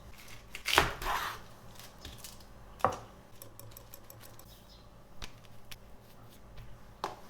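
Small handling sounds in a small room: a sharp knock with a brief rustle about a second in, a second knock near three seconds, then scattered light clicks and taps.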